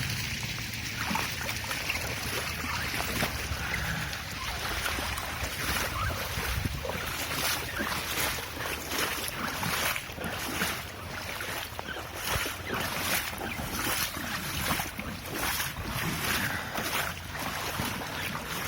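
Floodwater lapping and splashing, with wind buffeting the microphone in irregular gusts.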